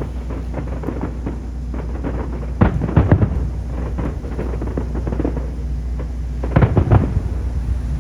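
Aerial fireworks bursting: a continuous low rumble of distant explosions, with two clusters of loud bangs, one about three seconds in and another near seven seconds.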